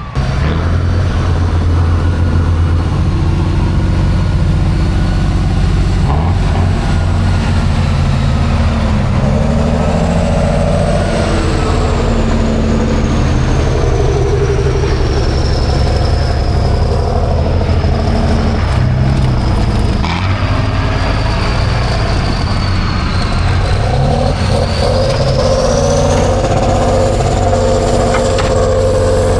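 Heavy truck-trial truck's engine running hard under load, its pitch rising and falling as it is revved, with a thin high whine that slides down and then climbs again.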